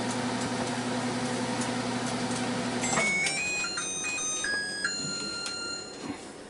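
LG Smart Inverter microwave oven running with a steady hum while it cooks bacon, then shutting off about three seconds in and playing a short tune of electronic beeps at changing pitches to signal the end of the cooking cycle.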